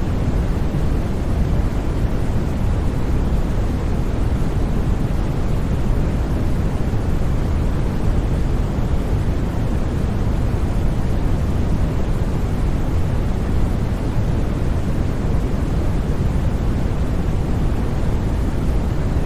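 Steady, unchanging noise track, sold as white noise, weighted toward a deep low hiss with no other sounds.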